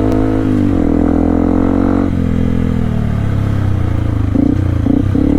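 Yamaha WR155R's single-cylinder four-stroke engine running while riding. About two seconds in its pitch drops as the bike slows, then it settles at a lower, steady note.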